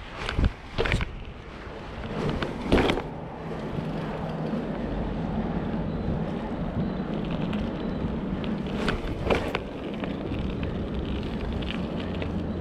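Wind rushing over the microphone while riding a BMX bike, with several sharp knocks, the loudest about three seconds in and a pair around nine seconds. A steady low hum sets in about four seconds in.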